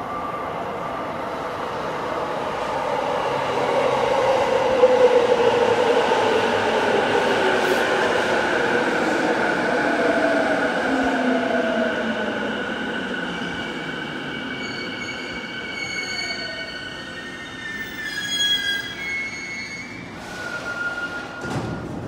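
A JR E233-7000 series electric train pulls into an underground platform and brakes to a stop. Its motor whine falls steadily in pitch as it slows. High steady tones sound as it comes to a halt, and the doors open near the end.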